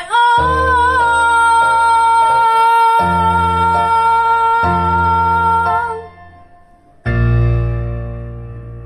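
A woman sings one long held note over keyboard chords, then stops about six seconds in; after a short pause a final keyboard chord sounds and slowly fades, closing the song.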